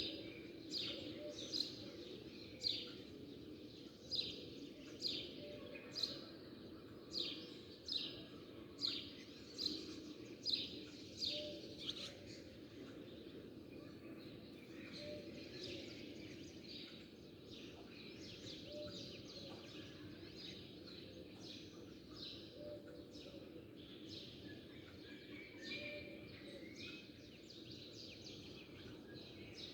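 Small birds chirping: a run of loud, quick, falling chirps about twice a second for the first twelve seconds or so, then softer, scattered chirping, over a steady low background noise.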